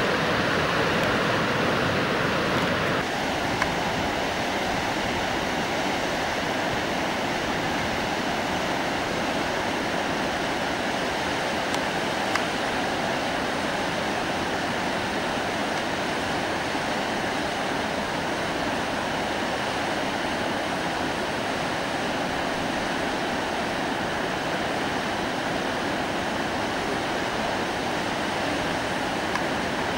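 Steady rush of fast river water over Indus rapids, with a slight change in tone about three seconds in.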